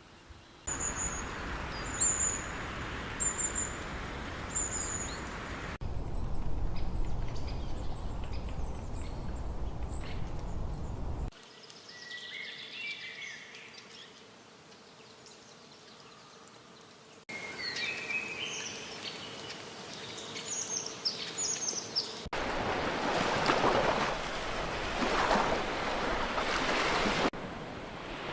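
Nature ambience made of clips that change abruptly every five or six seconds: birds chirping and calling over a steady rushing noise, with a quieter stretch of bird calls in the middle and louder rushing noise near the end.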